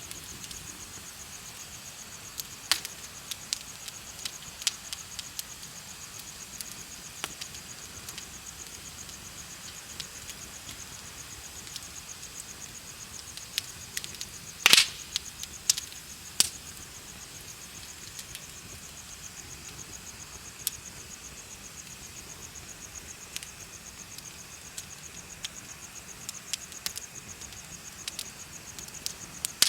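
Bonfire crackling with sharp, irregular pops, the loudest about halfway through, over a steady high-pitched pulsing chirp of crickets.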